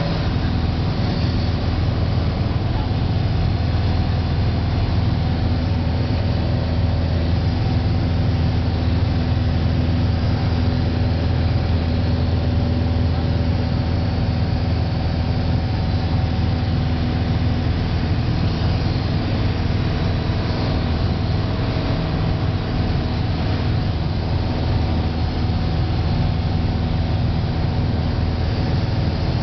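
Airplane engine droning steadily at an even pitch, heard from inside the aircraft.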